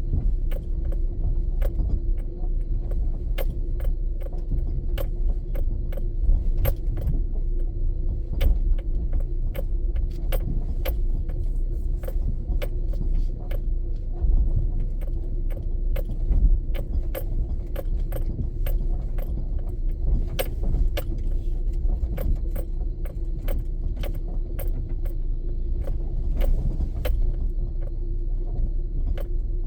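Car driving in the rain, heard from inside: a steady low road and engine rumble with a constant hum, and many sharp, irregular ticks of raindrops hitting the car's body and glass.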